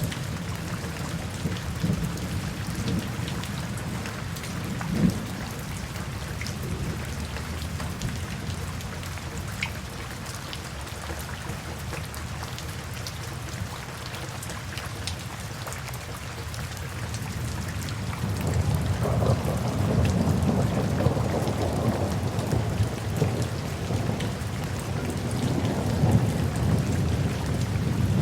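Steady rain with scattered drop patter, and a low rumble of thunder that swells in about two-thirds of the way through.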